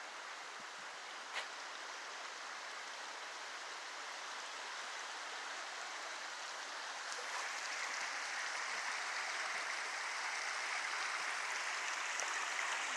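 Steady rushing of a stream or brook, a smooth hiss that grows louder about halfway through. A single sharp click comes about a second in.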